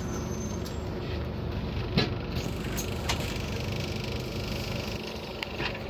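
Interior noise of a Scania Citywide city bus under way: a steady low drone of engine and road, with a few interior rattles and clicks and one sharper knock about two seconds in.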